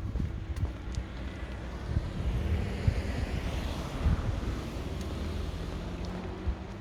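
A car driving past on the street, its tyre noise swelling to a peak about halfway through and then fading, with wind buffeting the microphone.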